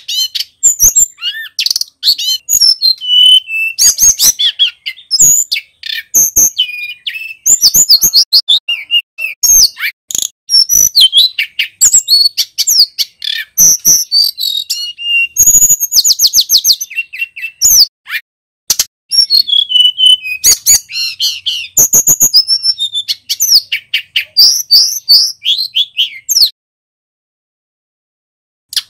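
Male tledekan gunung singing loudly, a continuous stream of rapid high chirps, whistled notes and fast trills, breaking off for about two seconds near the end.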